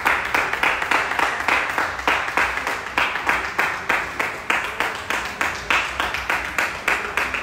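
People clapping in time together, a steady beat of about three claps a second.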